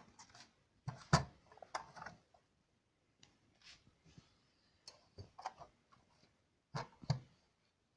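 Irregular clicks and light knocks in a small room, a few at a time, between near-silent gaps.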